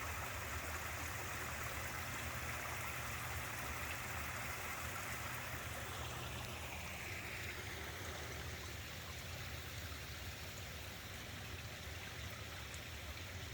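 Creek water running over a small falls in a steady, even rush, at the low flow of late summer.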